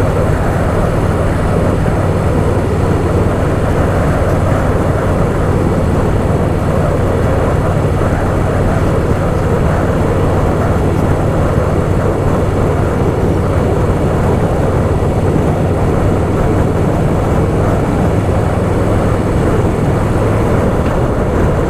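Harley-Davidson Softail Fat Boy's V-twin engine running steadily while riding, a constant low rumble mixed with wind rush on the bike's microphone.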